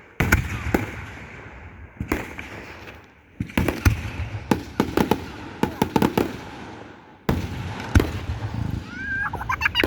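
Fireworks display: aerial shells going off in a string of sharp bangs and crackles, several close together in the middle and another loud bang near the end.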